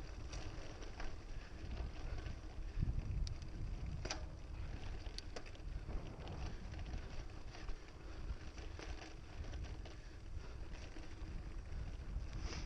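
Mountain bike riding a dirt trail, heard from the bike-mounted or rider-mounted camera: steady wind buffeting the microphone and tyre rumble, with scattered sharp clicks and rattles from the bike over roots and bumps.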